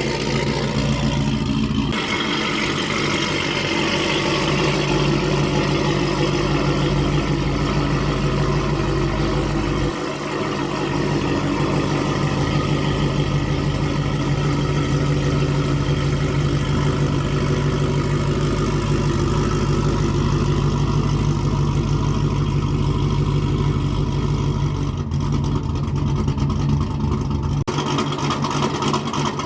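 Cammed supercharged V8 of a Cadillac CTS-V running through an exhaust with QTP electric cutouts, a steady, deep, loud exhaust note that changes abruptly several times where short clips are joined.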